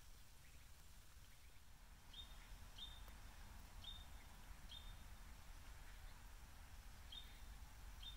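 Near-quiet outdoor ambience over a low steady rumble, with a small bird giving short, high chip calls, about six of them at uneven intervals starting about two seconds in.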